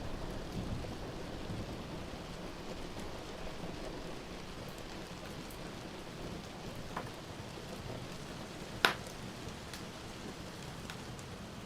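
Steady rain with a low rumble of thunder in the first couple of seconds, over a fire of burning wood giving a few crackles, the loudest a sharp pop about nine seconds in.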